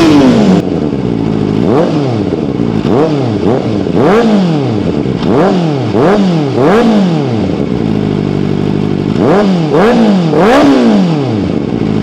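Kawasaki Ninja ZX-4RR's 399 cc inline-four, revved while standing. A held high rev drops back to idle at the start, then comes a series of about ten quick throttle blips, each a sharp rise and fall in pitch, with a short spell of steady idle near the middle.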